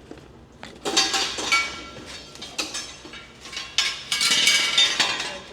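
Loose metal parts clinking and clanking as they are shifted and handled, some pieces ringing after they are struck. The noise comes in two busy spells, about a second in and again near the end.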